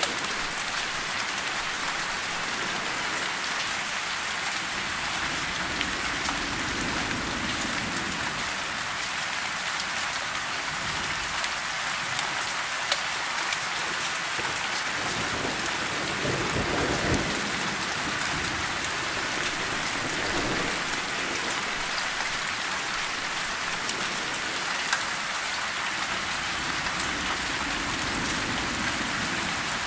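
Steady rain falling on tree foliage, a dense even patter with a few louder single drops ticking. Soft low rumbles of thunder come and go a few times.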